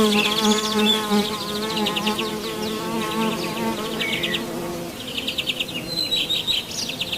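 A flying insect buzzing close by: a steady buzz whose pitch wavers slightly, fading out about five seconds in. Over it run rapid, high, pulsing trills and a few short chirps.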